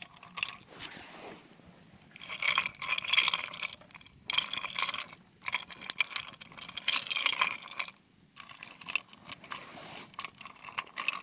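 Small metal gear being handled: clinking, clicking and scraping in four bursts with short pauses between them.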